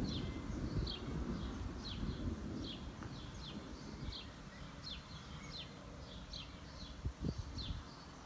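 Thunder rumble dying away over the first few seconds while a bird repeats a short, high, falling call about twice a second.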